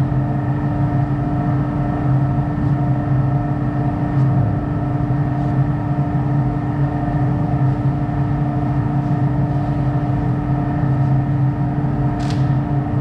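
Steady mechanical hum of a machine running, holding constant tones with a faint regular pulsing; a single sharp click about twelve seconds in.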